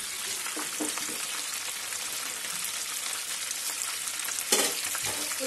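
Marinated chicken pieces deep-frying in oil in a pan, a steady sizzle, with one sharp knock about four and a half seconds in.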